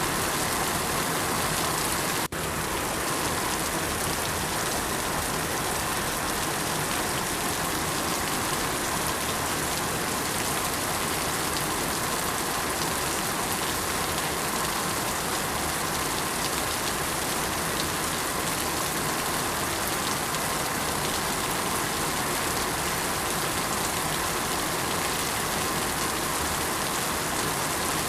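Steady rain falling, a dense even hiss with no single drops standing out. The sound drops out for a moment about two seconds in, then carries on.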